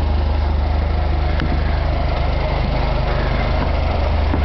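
An engine idling steadily with a low, even hum and a fast regular pulse.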